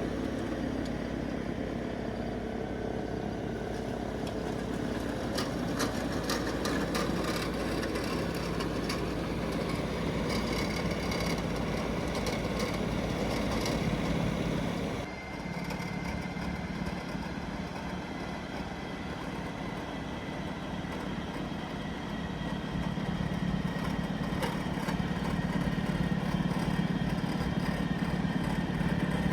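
Tractor engine running steadily under load while driving a rear-mounted two-stage snowblower through deep snow. The sound shifts abruptly about halfway through, then runs steadily again.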